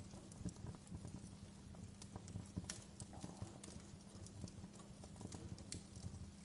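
Wood fire crackling, with irregular small pops and snaps over a low, steady rumble; one sharper snap comes about two and a half seconds in.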